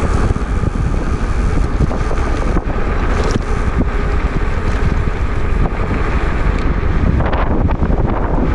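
Wind buffeting the microphone of a moving e-bike: a loud, steady rush heaviest in the low end.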